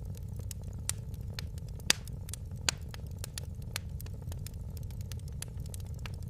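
Wood fire crackling in a fireplace: a steady low rumble of burning with irregular sharp pops and snaps, two louder pops about two and two and a half seconds in.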